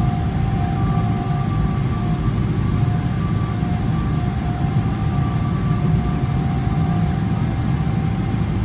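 Cabin noise of a Boeing 777-300ER on the ground before takeoff: the GE90 engines run at low thrust, giving a steady low rumble with two whining tones that fade in and out.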